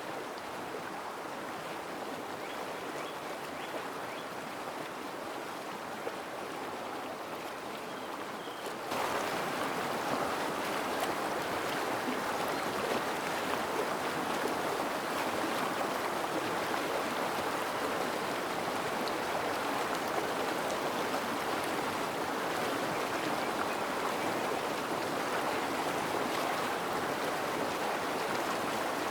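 Rushing creek water, steady throughout, becoming louder and fuller about nine seconds in.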